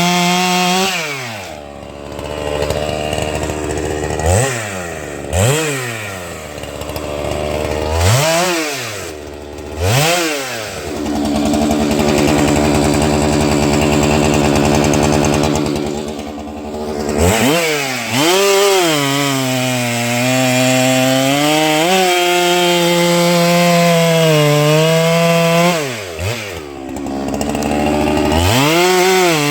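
Holzfforma 395XP two-stroke chainsaw, a 395XP clone, bucking a white pine log. The engine drops off and revs back up several times in the first ten seconds, then holds at full throttle. From about eighteen seconds its pitch wavers and sags as the chain is under load in the cut, then it drops off briefly near the end and revs up again.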